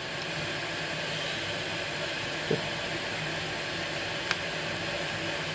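Kettle heating toward the boil, a steady hiss. A soft knock comes about two and a half seconds in and a small click about two seconds later.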